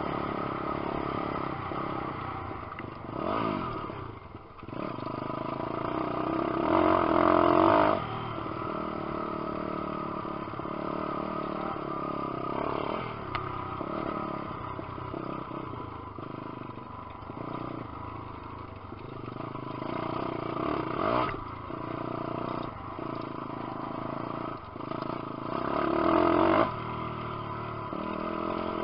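A 150cc four-stroke single-cylinder pit bike engine being ridden hard on a motocross track. The revs climb and cut off sharply again and again, loudest about a third of the way in and again near the end.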